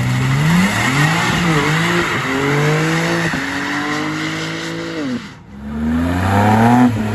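Car doing a burnout: the engine revs hard up and down over the hiss and squeal of spinning tires. The revs drop off sharply about five seconds in, then climb again near the end.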